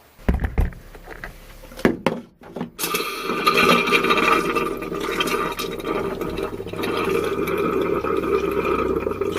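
A couple of knocks in the first two seconds, then from about three seconds in the RV's fresh-water pump runs steadily with water rushing through the plumbing and faucet.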